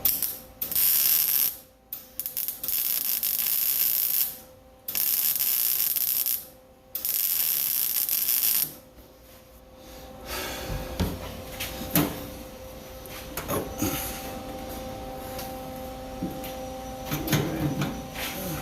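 Welding short beads on sheet-metal floor pans: four runs of crackling hiss, each a second and a half to two seconds long, with short pauses between them. After about nine seconds the welding stops, leaving a steady hum with scattered clicks and knocks.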